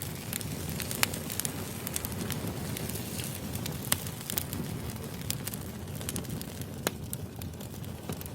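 Firewood burning: a steady low rumble of flames with scattered crackles and a few sharper pops, about one, four and seven seconds in.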